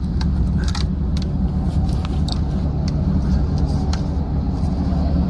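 Steady low rumble of a car on the move, with scattered sharp clicks and knocks over it.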